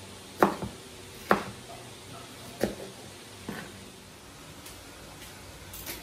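Four sharp kitchen knocks, each with a short ring, about a second apart in the first half, the first two loudest, over a faint steady hiss.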